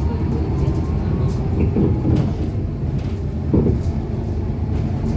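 Scania K230UB single-decker bus's diesel engine running steadily, with a faint rising whine in the first second and a few short knocks and rattles about two and three and a half seconds in.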